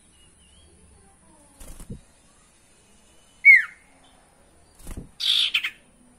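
Common iora in a cage giving one loud, downward-slurred whistle about three and a half seconds in. Soft thumps as it hops and flutters on the perch come before and after it, and a short harsh burst follows near the end.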